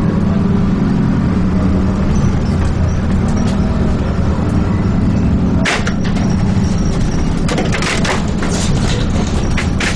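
Dennis Trident 2 double-decker bus engine running with a steady low drone. A sharp crack comes about halfway through, followed near the end by a run of clattering rattles.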